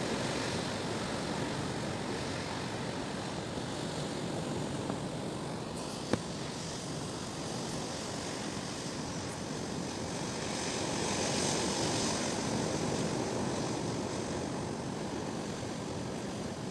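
Strong wind gusting over the microphone: a steady rushing noise that swells for a few seconds about ten seconds in. A single short knock sounds about six seconds in.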